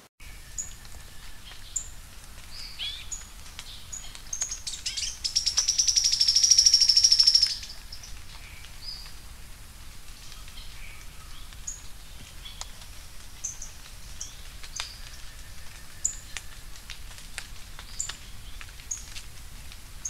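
Sharp-billed treehunter singing: a high, very fast trill of about three seconds that swells and then stops abruptly, with short high chips scattered through the rest.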